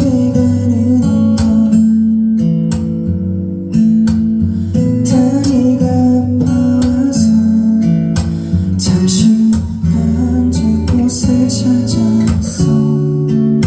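Live music: an acoustic guitar strummed steadily under a singing voice.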